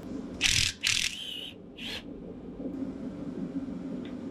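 Three short bursts from a pneumatic tool, typical of an air impact wrench taking off the ball-joint nut on a Polaris RZR's front suspension. The bursts come about half a second to two seconds in, over a steady low hum.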